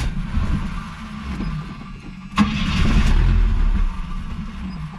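The Chevy four-cylinder of a 1981 AMC Spirit being cranked by its starter without catching, with a short break and a louder spell of cranking about two and a half seconds in. The fuel tank had been drained and gas has not yet reached the carburettor.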